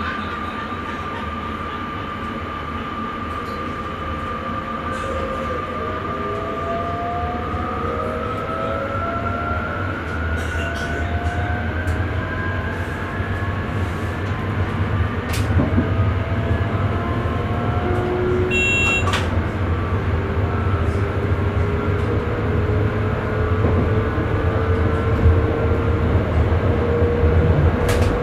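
Electric sprinter train heard from the driver's cab: a steady rumble of wheels on the rails under a motor whine that slowly rises in pitch and grows louder. A short electronic beep sounds in the cab about two-thirds of the way through, with a few sharp clicks along the way.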